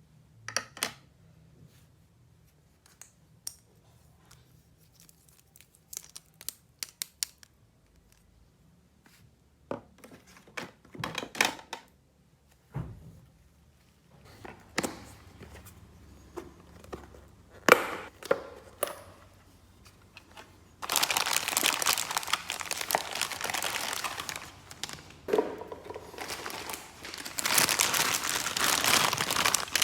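Toy packaging being handled and unwrapped: scattered light clicks and taps at first, then steady crinkling of plastic wrapping from about two-thirds of the way through, with a short pause in between.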